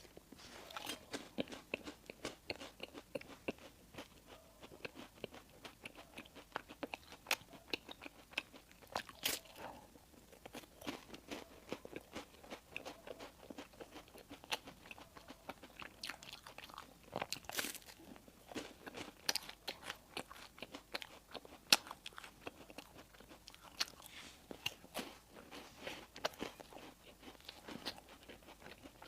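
Close-up eating sounds: crisp food being bitten and chewed with many irregular sharp crunches, a few louder crunches standing out, one about two-thirds of the way through.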